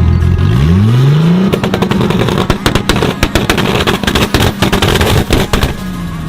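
A modified car's engine revs up sharply, then its exhaust backfires in a rapid string of loud pops and bangs for about four seconds, the kind that goes with flames shooting from the exhaust, before the revs fall away.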